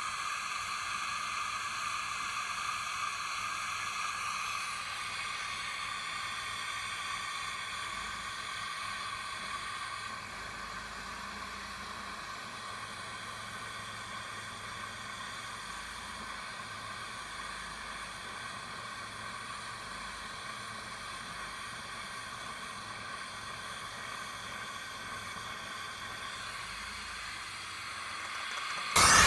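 Steady hiss with no engine note, easing a little about a third of the way in.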